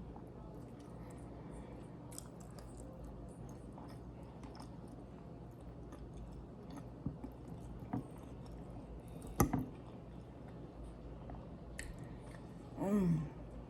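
Close-miked chewing with small wet smacking clicks as someone eats. One sharp click rings out about two-thirds of the way in, and a short hummed "mm" comes near the end.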